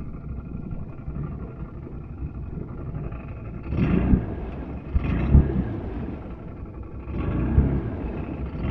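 ATV engine running near idle, then revved in several short bursts.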